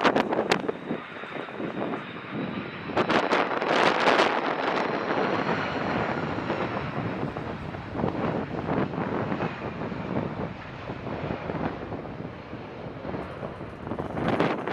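Jet airliner's engines running with a steady roar and a faint high whine that falls slightly as it passes. Gusts of wind buffet the microphone, most strongly about three to five seconds in.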